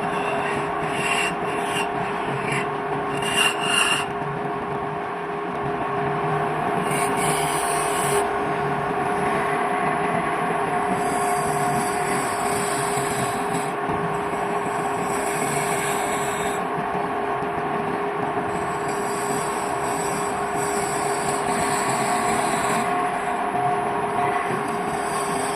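Wood lathe motor humming steadily while a turning tool scrapes and cuts the spinning wood. The tool touches in short scratchy bursts for the first few seconds, then rasps against the wood continuously.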